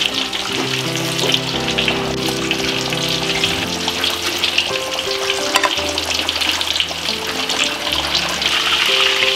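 Tuna steaks frying in hot oil in a wok: a steady crackling sizzle, with a couple of light clicks of metal tongs. Soft background music with held notes runs underneath.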